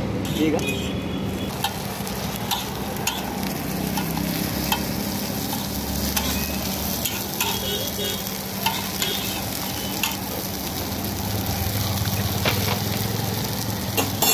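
Potato patties sizzling as they shallow-fry in oil on a flat griddle, with frequent sharp clicks and scrapes of a metal spatula against the griddle. A steady low hum runs underneath.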